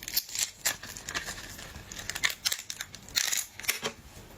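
Crisp cracking, snapping and crackling of cooked shrimp and lobster shells being broken and pulled apart by hand, in several irregular clusters.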